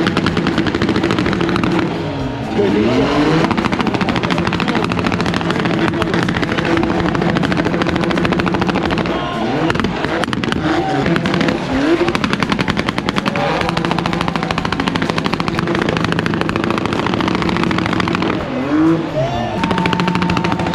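A car's engine held at high revs through a burnout, stuttering in a rapid, machine-gun-like crackle. The revs drop and climb back several times, about two seconds in, around ten seconds in and again near the end.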